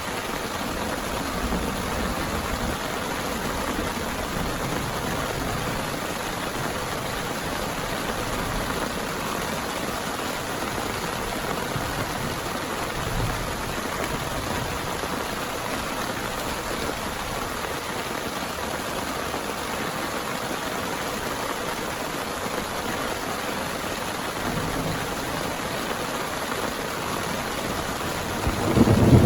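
Heavy rain falling steadily. Near the end a loud rumble of thunder begins.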